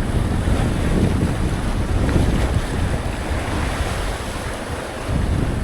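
Wind buffeting the microphone over a steady wash of sea.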